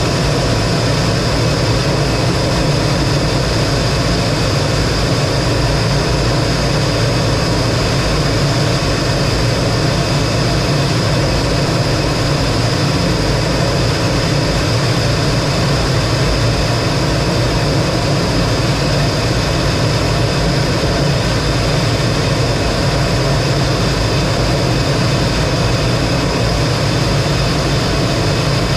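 T-33 jet trainer heard from inside the cockpit: the jet engine running steadily under a constant rush of noise, with a steady high whine over it.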